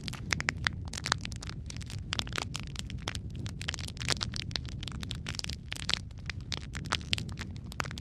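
Wood fire in a fireplace crackling: dense, irregular sharp pops and snaps over a steady low rumble of burning.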